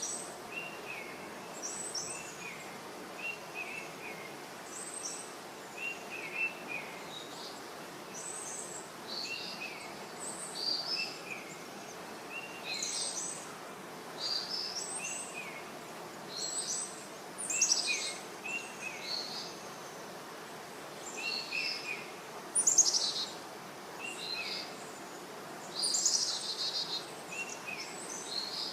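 Songbirds singing in short, high chirped phrases that repeat every second or two, over a steady faint background hiss; a few louder calls come near the end.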